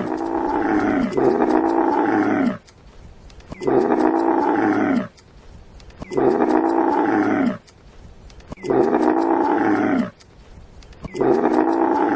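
A large animal calling over and over: about five long, drawn-out calls of a second and a half or so each, falling in pitch at the end, with short pauses between them.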